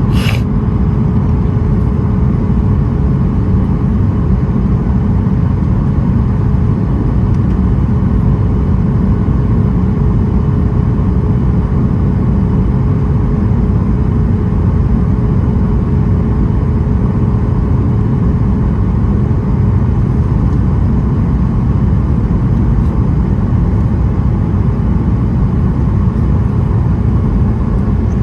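Steady cabin noise inside a Boeing 737-900ER airliner in flight: a loud, even low rumble of airflow and its CFM56-7B engines, with a faint steady hum under it. A short high click comes right at the start.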